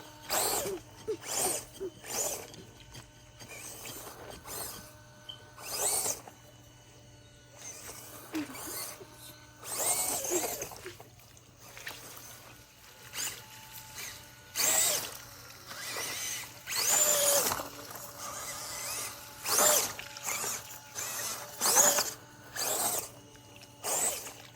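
Digging in dirt: a series of irregular scrapes and scoops, one every half second to a second or so.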